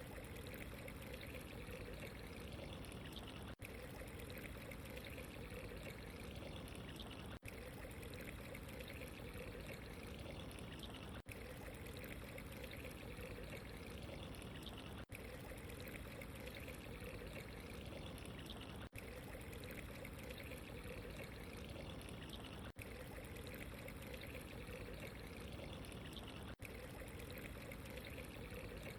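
Steady running water, trickling and pouring, as a short loop that repeats about every four seconds with a brief dip at each seam.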